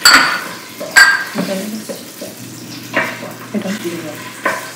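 Tomato paste frying and sizzling in a stainless steel pot as it is stirred with a wooden spoon, fried on low heat to cook out its sourness. Sharp ringing clinks of pot or dishes cut through it, the loudest right at the start and again about a second in, with more near the end.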